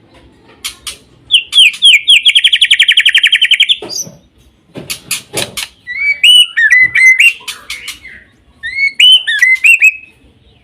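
White-rumped shama singing: sharp clicks, then a fast trill of repeated notes at about ten a second for around two seconds, then varied whistled phrases that slide up and down.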